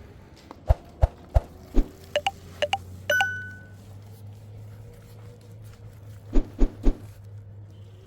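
Cookware being handled: four sharp knocks, a few clinks and a short metallic ring, then three more knocks near the end.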